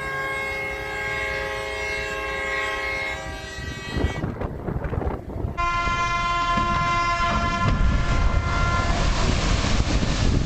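Ship's horn sounding long, steady blasts, heard in two separate stretches with a break and cut about five seconds in. A low rumble grows beneath the second blast.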